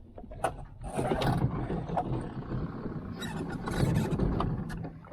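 Small outboard motor on a jon boat running under way, with a rush of water and wind noise from about a second in until near the end, and a few sharp knocks.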